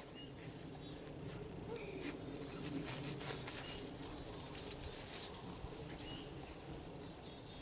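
Faint outdoor ambience with small birds chirping in the background, and soft scattered clicks.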